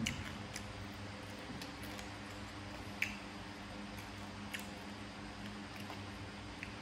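A person chewing and eating papaya salad and grilled pork: sparse short wet clicks and crunches over a steady low hum.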